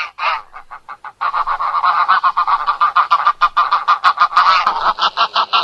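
Wild goose honking: a few separate calls, then from about a second in a rapid, unbroken run of honks, several a second.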